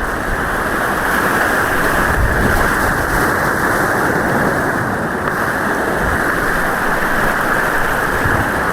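White water rushing steadily and loudly close by on an artificial whitewater course, a dense churning hiss with no breaks.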